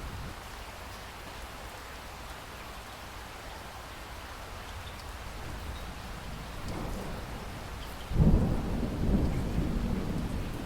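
Steady rain falling, then a sudden clap of thunder about eight seconds in that rumbles on.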